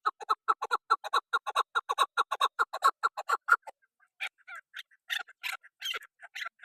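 A bird calling in a fast run of short repeated notes, about seven a second, that stops about three and a half seconds in; after a short pause, sparser, harsher calls follow.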